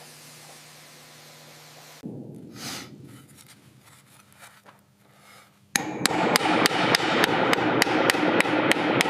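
A faint steady hiss, then, a little past halfway, a rapid run of loud, regular hammer strikes, about three to four a second, that keeps going.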